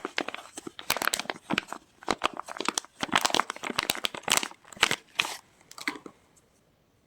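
Soap packaging crinkling and rustling as it is unwrapped by hand. There is a dense run of sharp crackles that stops about six seconds in.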